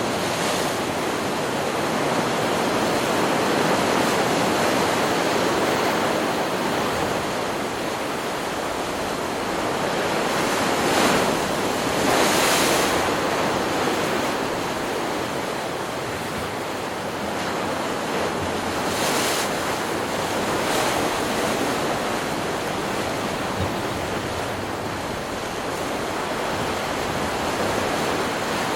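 Ocean surf: a continuous wash of breaking waves, swelling in a few louder surges near the middle.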